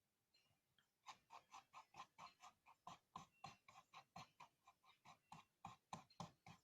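Faint pencil strokes on paper: quick back-and-forth scratching, about five strokes a second, starting about a second in.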